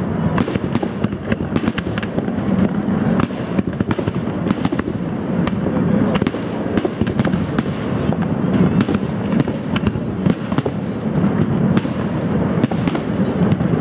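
Fireworks display: aerial shells bursting in a dense, continuous barrage, with many sharp cracks over a steady low rumble.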